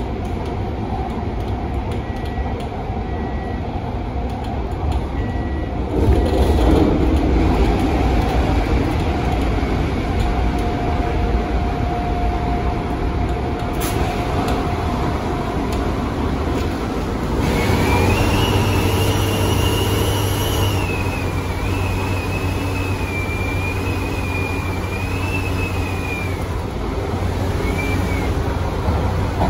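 MTR Tung Chung line A-train (Adtranz-CAF electric multiple unit) running along the line with a steady low rumble. It gets louder about six seconds in. Past the middle a high, wavering whine rises and falls for several seconds and then fades.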